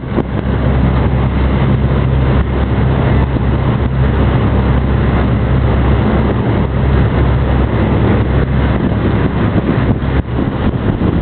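Jet boat's engines running steadily: a loud, constant low drone with a rushing noise over it.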